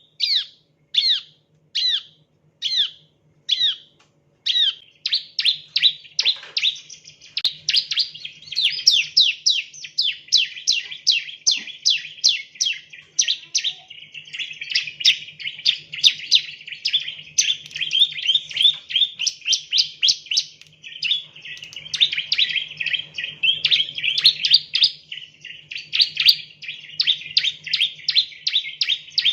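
Bar-winged prinia (ciblek) calling in sharp, downward-sweeping chirps. At first they come singly, about one a second; from about five seconds in they run together into a fast, unbroken series of several chirps a second. A faint low hum lies underneath.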